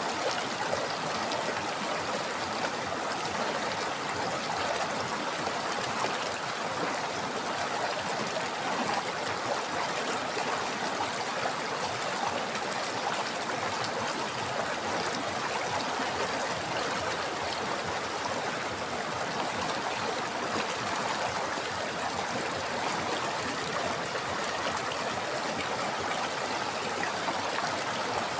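River water flowing over rocks, a steady rushing and babbling stream.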